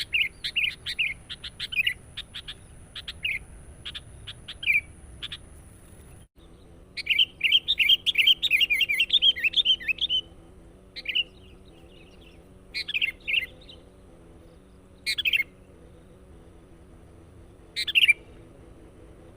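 Sooty-headed bulbul (kutilang) calling: quick, sharp chirping notes, a brief gap, then a dense run of chatter about seven seconds in, followed by short calls every couple of seconds.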